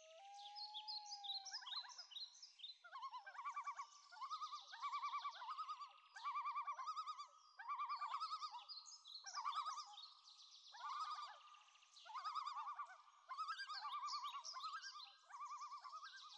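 Birds calling in short, repeated trilled phrases, several voices overlapping.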